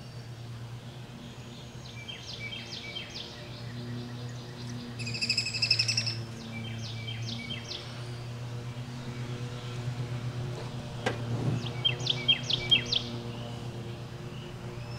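Several birds chirping in short runs of quick high notes, with one buzzier call about five seconds in, over a steady low hum.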